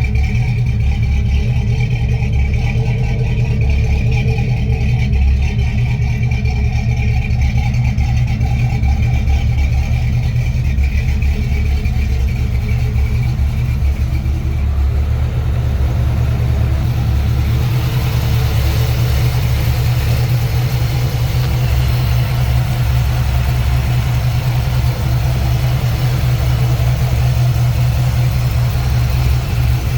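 1969 Chevrolet C10 pickup's engine running steadily. A brighter hiss joins over it a little past halfway through.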